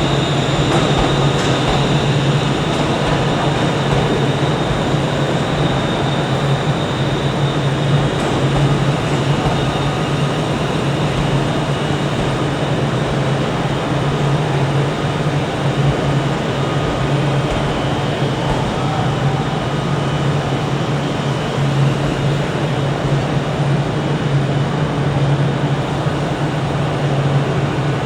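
A train standing at a station platform with its motor running: a steady low drone under the even background noise of the station.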